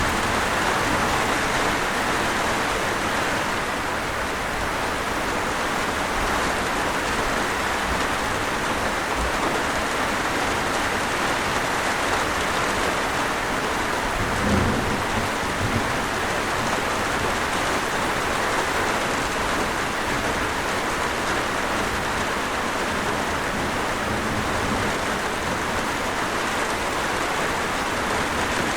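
Steady, even rainfall pouring down. About halfway through comes a brief low rumble.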